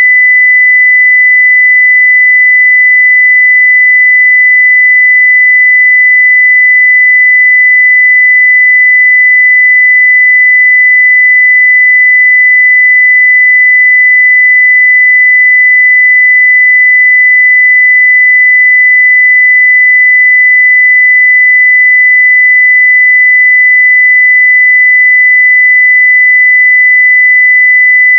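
Continuous 2 kHz sine-wave test tone at full level, a single pure steady pitch with no change.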